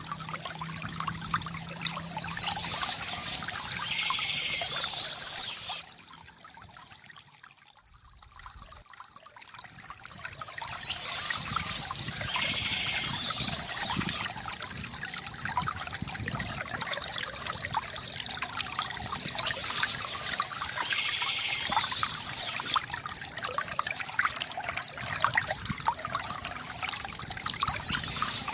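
A small stream trickling and splashing over stones in a steady wash of water noise, which fades down briefly a few seconds in and then swells back.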